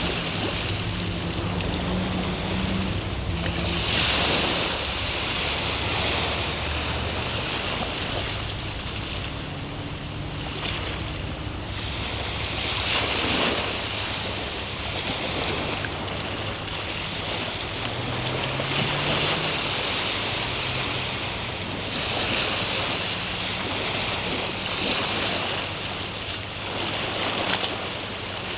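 Ocean surf: waves breaking and washing in, the hiss swelling with each wave every several seconds and easing between.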